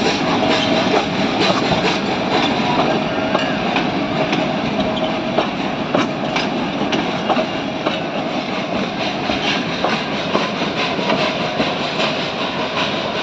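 Ooty toy train of the Nilgiri Mountain Railway running along the station track, wheels clacking over the rail joints with a steady mechanical din; it grows slightly quieter toward the end.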